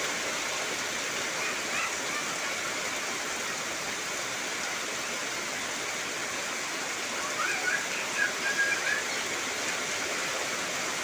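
Heavy rain falling steadily, an even hiss with no let-up. A few short, faint chirps rise above it about two seconds in and again from about seven to nine seconds in.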